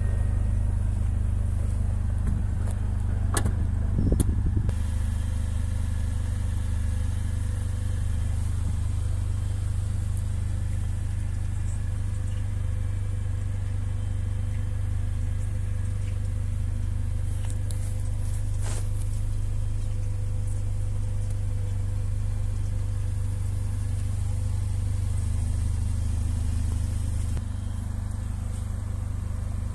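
Mercedes-AMG GLA 45's turbocharged 2.0-litre four-cylinder engine idling steadily after being started by its push button, with a brief louder burst about four seconds in.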